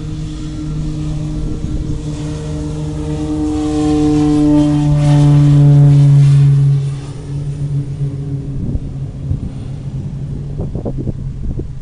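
Airplane passing low overhead: a steady engine drone that grows louder to a peak about six seconds in, then falls away suddenly.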